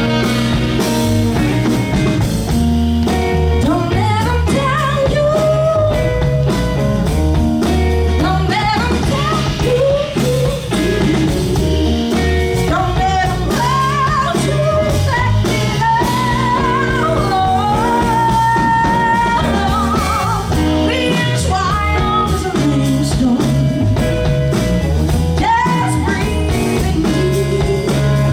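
Blues-rock band playing live, with bass and drums under a lead melody of bent, wavering notes.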